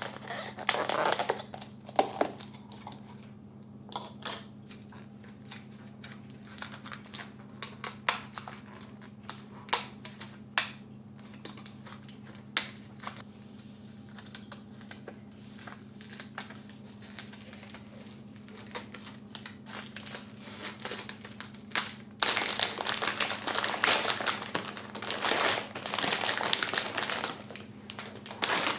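Kitchen handling sounds: scattered light clicks and knocks, then from about 22 seconds in a louder, continuous stretch of crinkling, like plastic packaging being handled. A low steady hum runs underneath.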